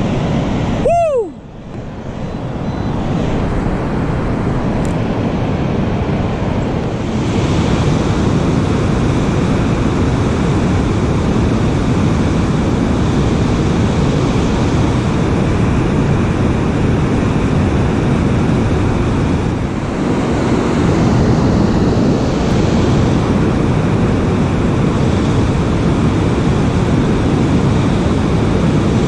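Loud, steady rushing noise, with a short falling tone about a second in.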